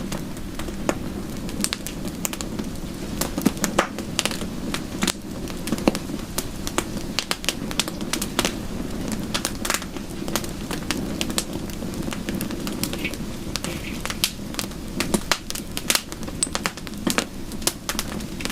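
Wood fire crackling: a steady low rush with many sharp, irregular pops and snaps.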